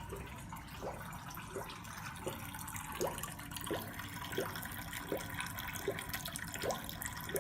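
Engine oil dripping from the drain hole into a catch pan below, each drop a short rising plink, about three every two seconds at an even pace.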